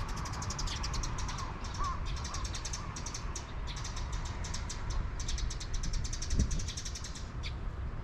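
Rapid, high-pitched chirping of small birds in quick runs that stop about 7.5 s in, over a steady low outdoor rumble.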